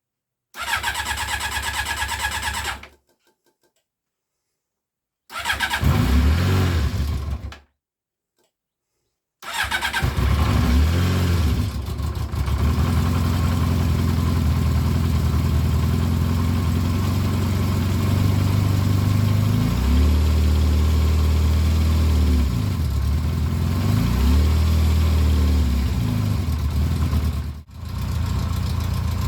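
Yamaha XJ600 S motorcycle's air-cooled inline-four engine being started from cold: two short tries that do not keep it going, then it catches about ten seconds in and keeps running, with a couple of brief revs about twenty seconds in.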